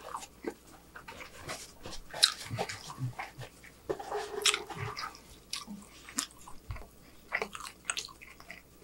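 Close-miked wet chewing and lip-smacking on a mouthful of burger: irregular soft clicks and squelches, with a brief hum of the voice about four seconds in.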